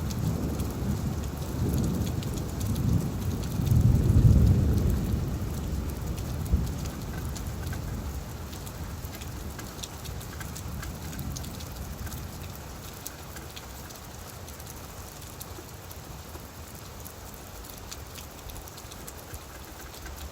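Steady rain falling on leaves, with many small drop ticks. A low rumble of distant thunder swells over the first few seconds, peaks about four seconds in and dies away after that.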